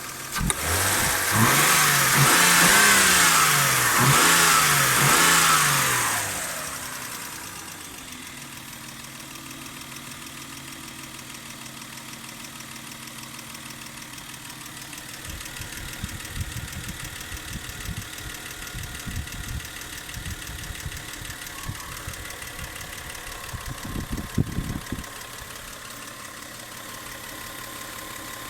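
Toyota 1G-FE BEAMS straight-six engine revved in several quick throttle blips, then settling back to a steady idle. Over the idle an irregular knocking comes and goes, heaviest near the end. It is an unexplained knock that the owner hears besides the valve tapping.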